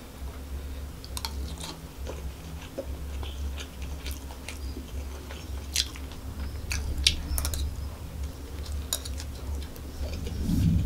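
Close-miked chewing of a mouthful of chicken fried rice, with many scattered sharp mouth clicks and a steady low hum underneath. A louder low thud comes near the end.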